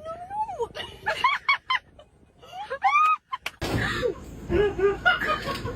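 Several short animal calls, each rising and then falling in pitch, one after another. About three and a half seconds in, they give way to a noisier, fuller background.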